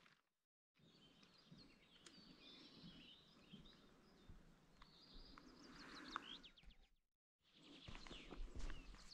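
Faint birdsong, with quick chirps and a short trill, over quiet open-air ambience. It drops out to dead silence twice, briefly, near the start and about seven seconds in.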